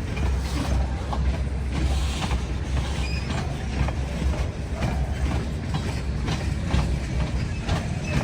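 Freight train cars rolling past: a steady low rumble from the wheels on the rails, with irregular clicks and clanks as wheels cross rail joints and the cars' couplers and bodies rattle.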